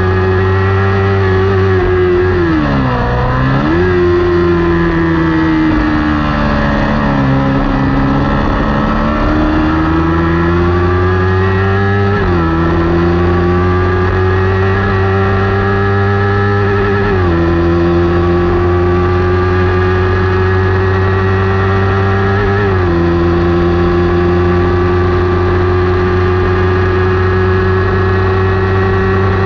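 Kawasaki Ninja 400 parallel-twin engine at racing revs. The revs drop sharply for braking and downshifts about three seconds in, then climb back through the gears, with three upshifts, and hold high near the end.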